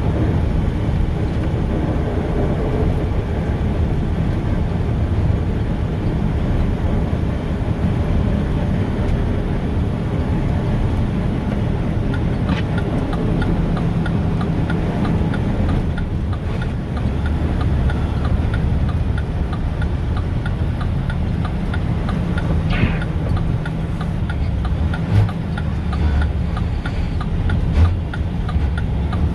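Mack plow truck's diesel engine and road noise heard from inside the cab: a steady low rumble, joined by a faint, regular ticking about halfway through.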